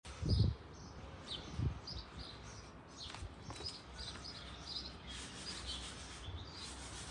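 Small birds chirping repeatedly in short, high calls over a faint steady background hiss, with a low thump just after the start.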